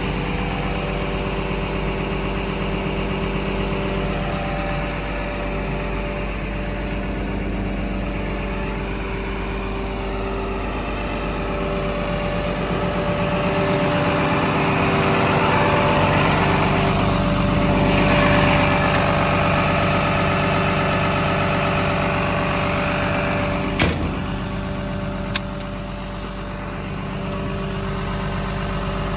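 Komatsu D61PXi-24 bulldozer's diesel engine running steadily, swelling louder about halfway through before settling back. A sharp click stands out about four-fifths of the way in, followed by a fainter one.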